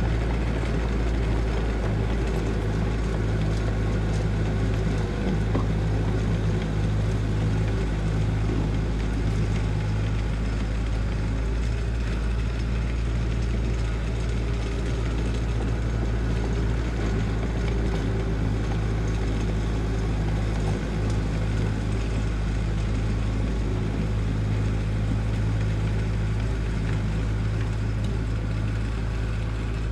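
Engine of a heavy construction machine running steadily at an even speed, a deep constant hum with no revving or breaks.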